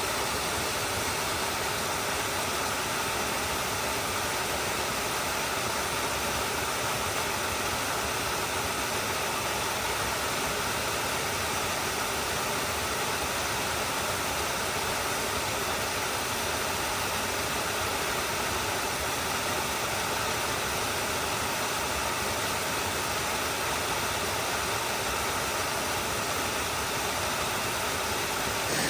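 Stream water flowing steadily, a continuous even rush with no breaks.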